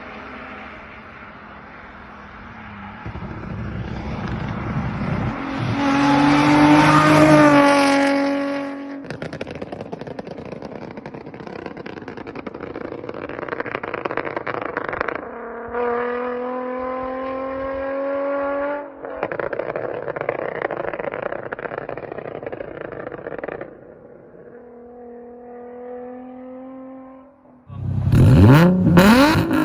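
Nissan 350Z's 3.5-litre V6 revved again and again through a titanium Agency Power straight-through exhaust: each rev climbs in pitch and drops back, with popping on the overrun in between. Near the end a sudden much louder burst of revving.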